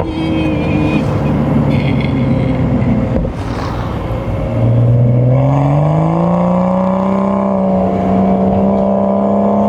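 BMW M235i's turbocharged 3.0-litre inline-six running under way: the revs sag gently for a few seconds, climb about halfway through, and are then held steady at higher revs.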